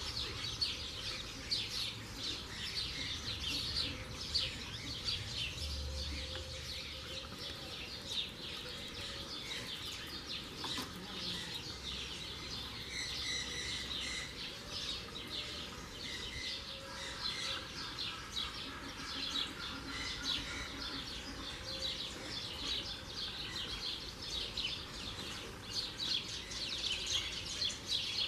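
A busy chorus of small birds chirping continuously, with dense overlapping short, high chirps.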